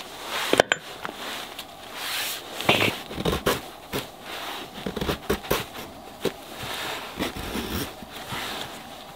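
Irregular clicks, knocks and rustling of things being handled, with a few sharper cracks scattered through.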